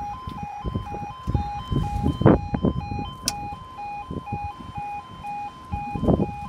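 Level crossing warning alarm sounding: a two-tone yodel alternating between a lower and a higher note about twice a second, with irregular low rumbling and thumps underneath.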